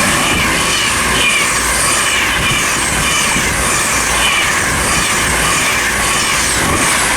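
Class 390 Pendolino electric train passing through at speed: a loud, steady noise of wheels on the rails and rushing air, with a high hiss over it.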